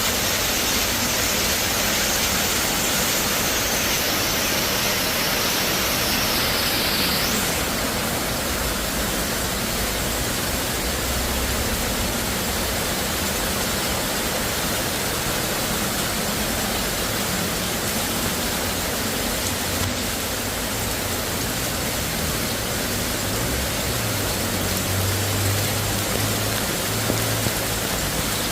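Steady downpour of rain, an even hiss. During the first seven seconds a high tone slides slowly downward, then stops abruptly.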